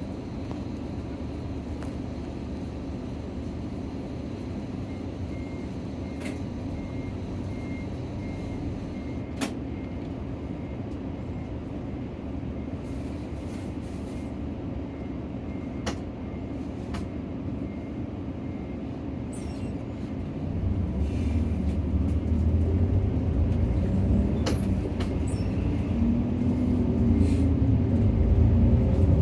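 Cabin sound of a Nissan Diesel PKG-RA274KAN city bus: the diesel engine runs steadily with a few sharp clicks, then about twenty seconds in it grows louder and rises in pitch as the bus pulls away and accelerates.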